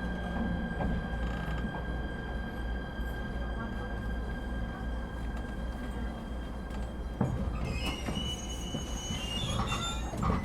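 Inside an ET127 series electric train slowing for a station stop: steady running rumble and a steady electrical whine, then brake squeal with high wavering tones from about eight seconds in.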